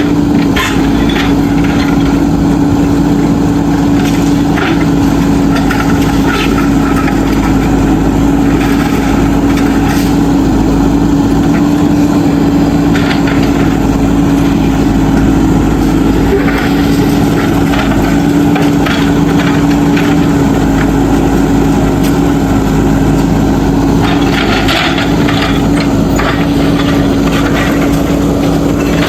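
JCB backhoe loader's diesel engine running at a steady pitch, with scattered knocks and clatter, most of them bunched together about 24 seconds in.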